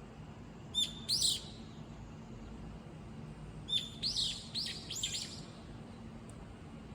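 A single bird calling loudly and insistently: a short burst of sharp, high calls about a second in, then a longer string of five or six calls a few seconds later, each beginning with a brief steady whistle followed by quick arching notes.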